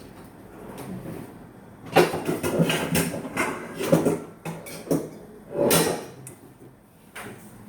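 Kitchen clatter of a bowl and dishes being handled and set down: a run of knocks and clunks starting about two seconds in, with a longer clattering one near six seconds.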